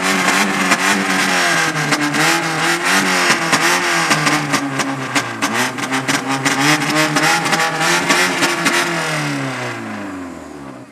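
A car's engine and exhaust being revved over and over, the note rising and falling, with many sharp crackles. Near the end the revs drop away in a falling note and fade.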